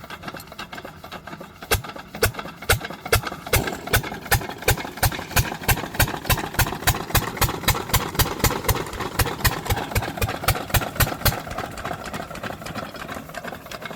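12 HP diesel engine of a water pump set running, with a sharp knock about four times a second that stops near the end, leaving the steady running.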